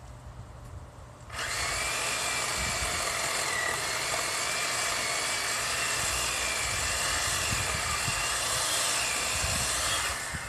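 Chainsaw running steadily at high speed; it starts abruptly about a second in and cuts off shortly before the end.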